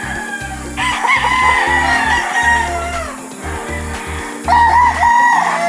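Gamefowl rooster crowing twice: one long crow of about two seconds, its pitch falling at the end, then a shorter crow near the end.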